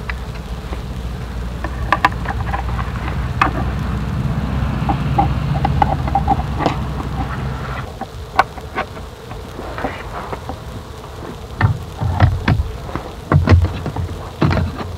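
Rain falling, with a steady low rumble under it through the first half. Later come scattered sharp taps and a few low thumps.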